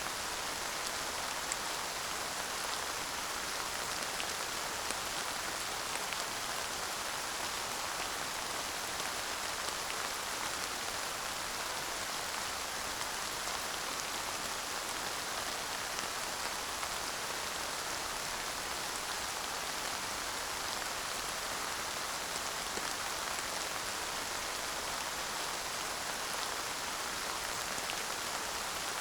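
Steady light rain falling, an even hiss with scattered small drop ticks, no thunder.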